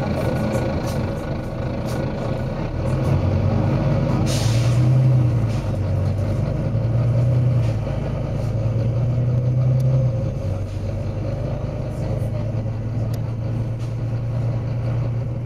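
Volvo B9TL bus's diesel engine running under load, its low drone swelling and easing several times, with a short burst of compressed-air hiss about four seconds in.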